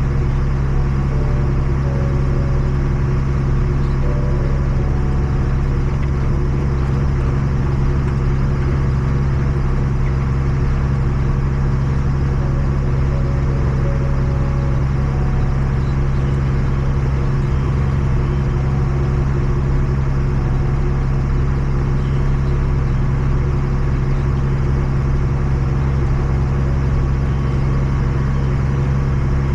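Tractor engine running steadily at an even speed, close up, with a deep low hum and no change in pitch.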